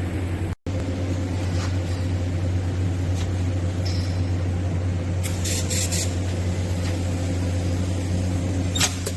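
TIG welding on stainless steel pipe: a steady low electrical hum with a faint hiss, cutting out briefly just over half a second in, with a few light clicks later.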